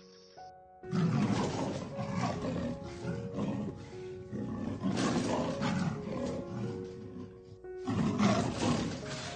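Clouded leopard roaring with its mouth wide open: a loud, rough roar in uneven pulses, starting about a second in, breaking off briefly near the end and then starting again. Soft background music plays underneath.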